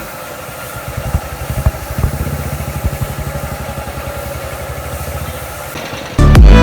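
Hero Honda Super Splendor's single-cylinder four-stroke engine idling with an even, rapid beat. Loud music cuts in near the end.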